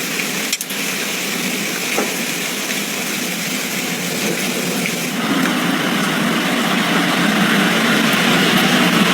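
Steady rush of storm water, heavy rain or flowing floodwater, growing louder and fuller about five seconds in.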